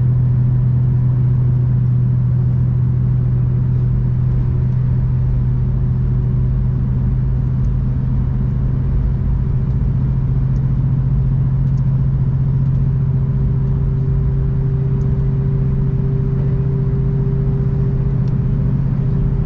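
V/Line passenger train running along the line, heard from inside the carriage: a steady low drone and rumble, with a fainter hum that rises a little in pitch about two-thirds of the way through.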